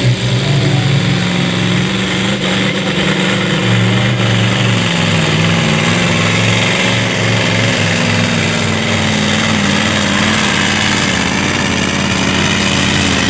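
Supersport-class pulling truck's engine running hard under load during a pull, a loud, steady drone with only slight changes in pitch.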